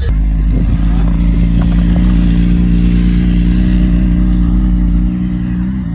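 Vehicle engine idling close by: a steady, even drone with a deep rumble beneath, the rumble dropping away a little about five seconds in.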